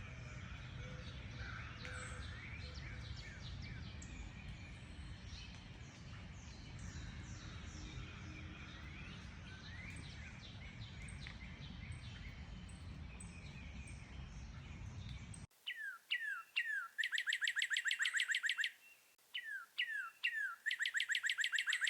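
Many birds chirping and singing at once over a low steady rumble. About fifteen seconds in it cuts to a single bird's song: a few down-slurred notes followed by a fast, even trill, sung twice.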